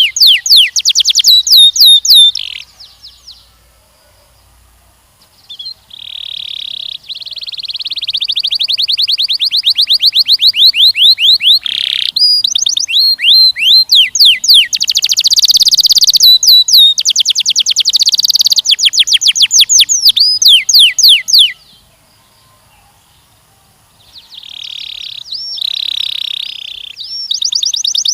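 Canary singing long rolls of rapid, evenly repeated high chirps. The phrases are broken by two pauses of a few seconds, about three seconds in and again a little after twenty seconds.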